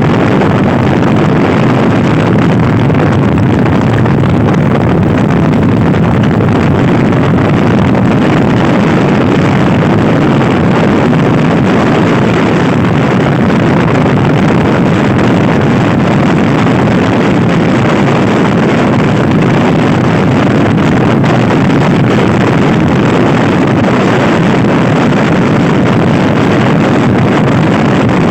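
Loud, steady wind rush buffeting the microphone of a Honda Scoopy-i scooter ridden hard at speed, mixed with the scooter's engine running.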